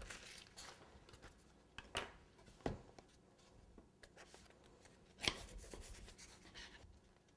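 Buttercream being spread on cake: soft intermittent scrapes of the tool, with a few sharp clicks and knocks against the cake board, the loudest a little past five seconds in.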